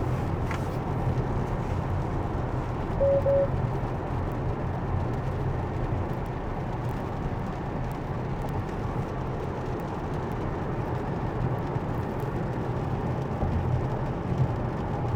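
Steady road and wet-tyre noise heard inside a Tesla's cabin on a rain-soaked freeway. About three seconds in, two short quick beeps sound.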